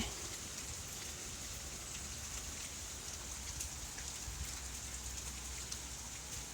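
Steady rain falling and pattering on surfaces, a constant hiss with scattered small drop ticks.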